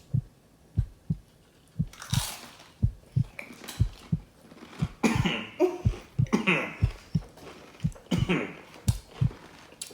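People chewing a Carolina Reaper-pepper tortilla chip, with steady low chewing thuds about twice a second. Coughs and wordless mouth noises break in several times as the heat hits.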